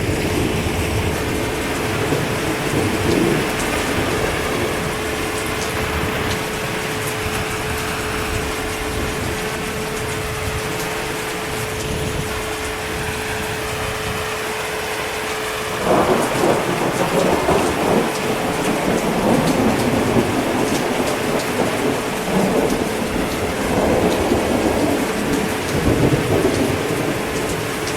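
Steady heavy rain with thunder rumbling through it; a louder roll of thunder breaks in suddenly about halfway through and rumbles on, swelling again near the end.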